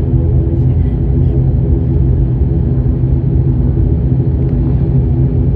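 Steady droning hum inside the cabin of a turboprop airliner, its engines and propellers still turning after landing, with a constant low tone and several higher hum lines.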